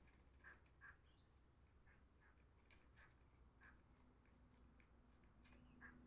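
Faint, short bird chirps, repeated every second or so, with a few faint light clicks among them.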